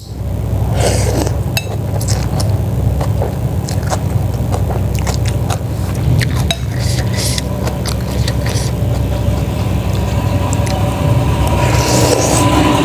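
A spoon clinking and scraping against a soup bowl in scattered short clicks during eating, over a steady low rumble. Near the end a small engine starts to be heard running.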